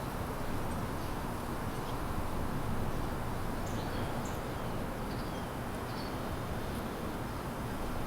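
Outdoor ambience: a steady low rumble with a few faint, short bird chirps in the middle.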